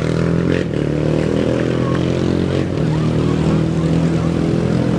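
An off-road racing engine running steadily near idle, a dense even engine note with no big revs.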